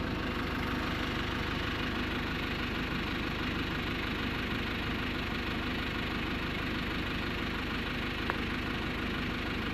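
A steady engine rumble, like a vehicle running at idle, with a faint short tick about eight seconds in.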